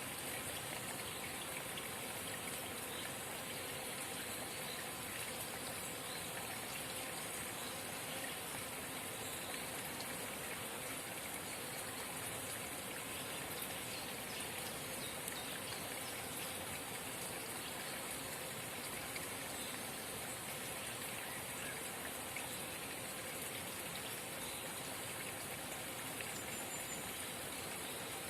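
Forest spring babbling and trickling steadily.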